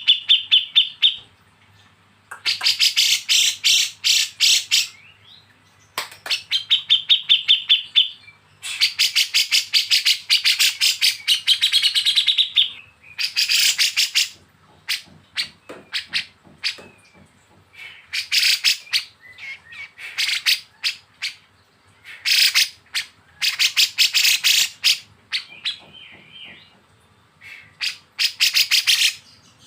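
Recorded songbird calls of kapas tembak and cucak jenggot: runs of fast, harsh rattling notes (the 'besetan' burst), each lasting one to three seconds, alternating with a steadier high trill, with short pauses between the runs.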